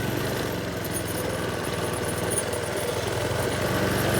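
Minibike's small engine running steadily under way, its sound growing slightly louder toward the end as it pulls.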